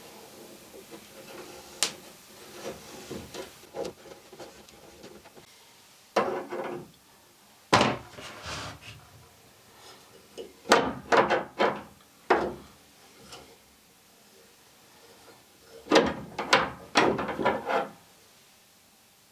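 Clicks, knocks and scraping of small plumbing fittings and hand tools being handled and screwed together while a ball-valve tap is fitted to a water line, in several short bursts.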